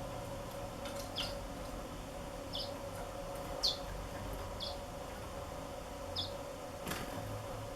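Black-throated canaries giving short, high, falling chirps, one roughly every second, over a steady hum. A couple of faint clicks come near the start and near the end.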